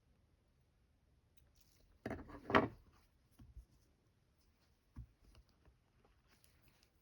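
Handling noises from sewing work at a table: a brief rustle about two seconds in, followed by a few light knocks.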